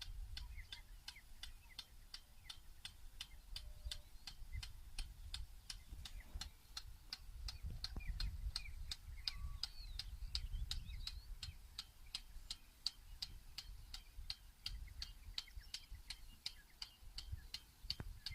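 Rain gun sprinkler ticking steadily as it turns, a sharp click about three times a second.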